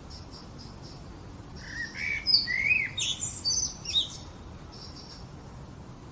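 A songbird singing one varied phrase of about two and a half seconds, made of rising and falling whistled notes and quick trills, starting about one and a half seconds in. Faint short high chirps repeat in quick groups behind it throughout.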